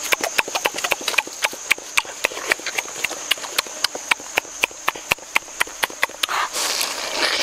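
Rapid wet smacking clicks, about five a second, of someone chewing food with an open mouth.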